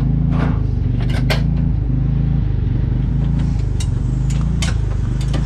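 A motor running steadily with a low, even drone, while sharp clicks and knocks sound at irregular moments over it.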